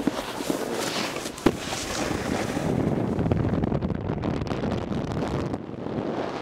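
Wind rushing over the microphone, a steady noisy rush with a single sharp knock about a second and a half in.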